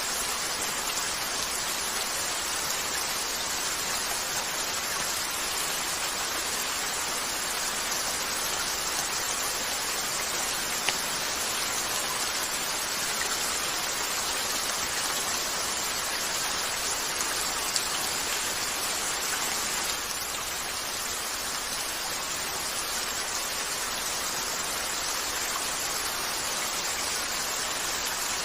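Steady rain falling on a window, with two sharp fireplace crackles, one about eleven seconds in and one about eighteen seconds in.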